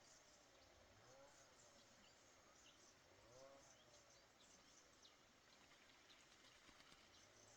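Faint outdoor ambience with distant bird calls: scattered short chirps and a few soft arching calls over a low hiss.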